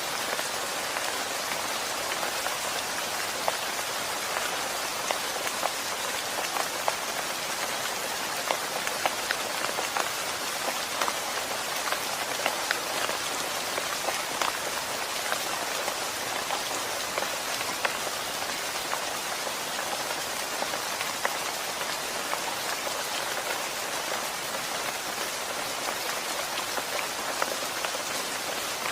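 Steady rain falling, an even hiss with many separate drops ticking irregularly on a nearby surface.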